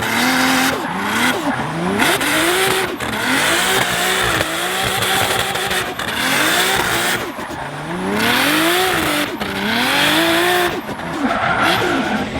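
Nissan RB26 twin-turbo straight-six in an R33 Skyline being driven hard while drifting. The engine revs up and falls back over and over, about once a second, with short lifts off the throttle, over loud tyre noise.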